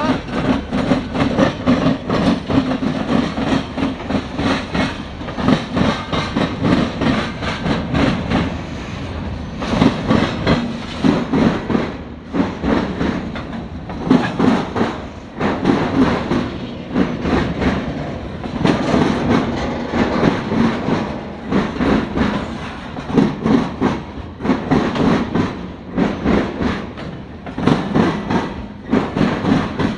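Norfolk Southern local freight train rolling past, its wheels clicking and clattering over the rail joints in an uneven rhythm under a steady rumble.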